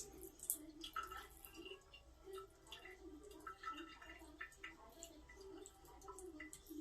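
Water dripping and trickling faintly as a toy washing machine is drained by hand, with scattered small ticks and drips.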